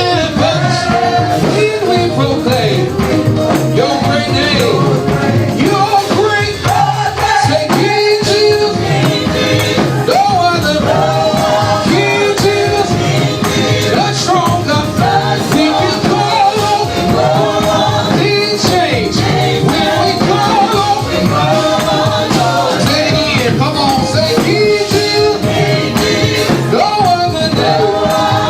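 Gospel praise and worship music: voices singing over a band with a steady beat.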